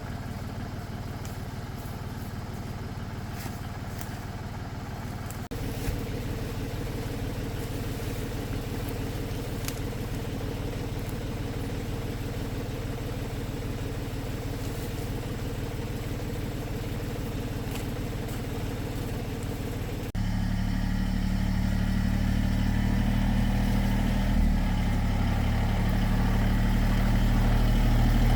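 Tractor engine running steadily. Its note changes abruptly about five seconds in and again about twenty seconds in, and it grows louder near the end.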